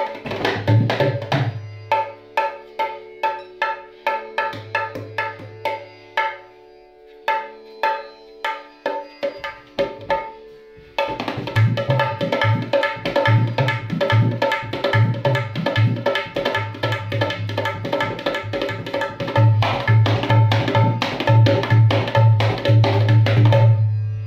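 Dholak tuned to the 4.5 black-key (kali) scale being played by hand: ringing treble-head strokes over deep bass-head booms. The strokes are sparse at first, then after a short break before the middle they become a fast, steady rhythm that stops just before the end.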